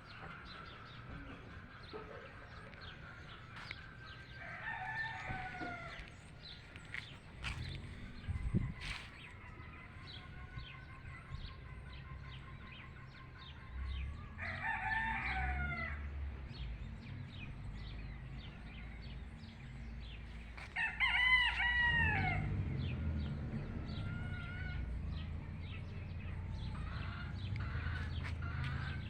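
Roosters crowing, three separate crows about 5, 15 and 21 seconds in, the last the loudest, with chickens clucking between them.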